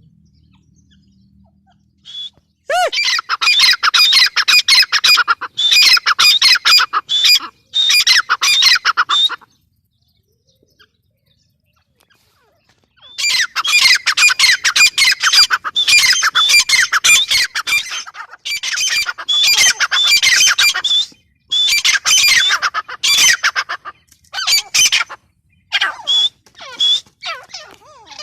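Gray francolin (teetar) calling in loud bouts of rapid, repeated harsh notes, each bout lasting a second or a few seconds. The calling stops for about three seconds in the middle and then resumes.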